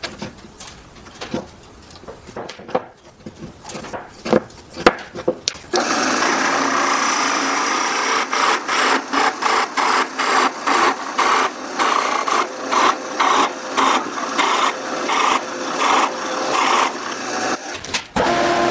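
Scattered knocks and clicks of wood being handled. Then, about six seconds in, a woodworking tool starts cutting or sanding wood: a dense noise in an even run of strokes about twice a second, which stops shortly before the end.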